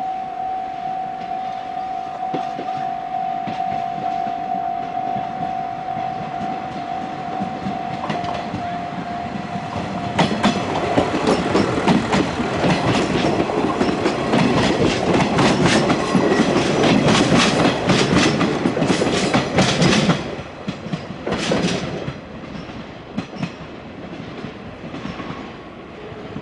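JR Shikoku diesel railcar passing, first with a steady whine, then for about ten seconds loud with rapid clacking of its wheels over rail joints and points, which drops off sharply near the end, leaving a quieter rumble with a few last clacks.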